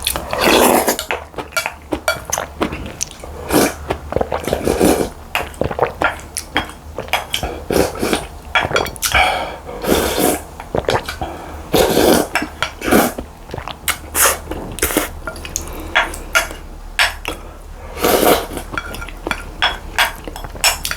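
Close-miked eating: cutlery clinking and scraping against a bowl, with chewing in between.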